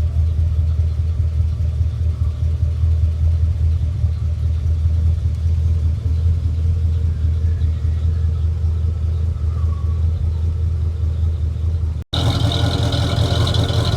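The 1959 Studebaker Lark's supercharged Avanti R2 289 V8, with a Paxton supercharger, running steadily after a cold start. About twelve seconds in the sound cuts out for an instant, then the engine comes back sounding brighter.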